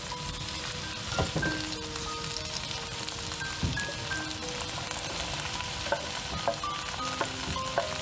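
Diced potatoes frying in a pan, sizzling steadily, while a wooden spoon stirs and scrapes through them. In the second half, chopped onion is pushed off a wooden board into the pan with a few light knocks of spoon and board.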